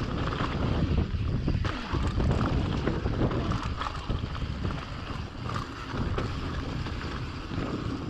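Wind buffeting a helmet camera's microphone while a mountain bike rattles and clatters over a rough, chattery stretch of trail, with constant small knocks from the bumps.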